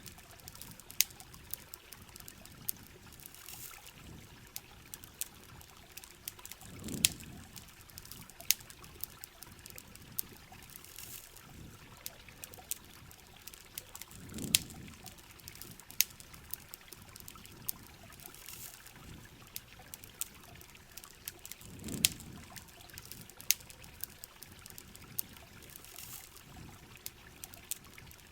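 Rain ambience: a steady hiss of heavy rain and trickling water, scattered with sharp crackling pops of a campfire. A low swell recurs about every seven and a half seconds.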